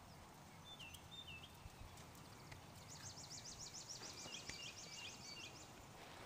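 Faint songbirds over quiet outdoor background noise: two short, downward-dipping whistled notes about a second in, then a fast, high, rapidly repeated trill from about three seconds until near the end, with a few lower short notes beneath it.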